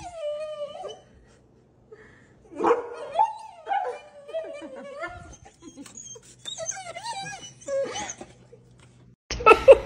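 A dog whining and whimpering in a run of high, wavering cries that bend up and down in pitch. A louder, different sound cuts in abruptly near the end.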